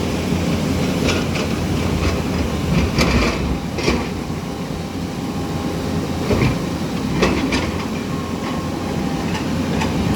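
Floodwater of the swollen Melamchi River rushing in a steady, deep roar, with a few sharp knocks scattered through it.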